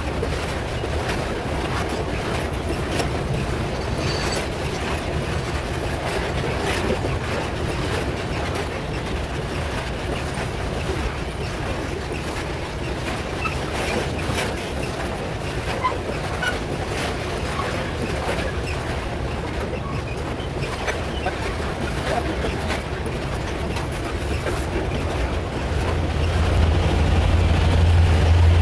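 Loaded metre-gauge freight wagons rolling past close by: a steady rumble of wheels on rail with scattered clicks and clatter. Near the end the low drone of a diesel locomotive engine grows louder as a locomotive in the train comes alongside.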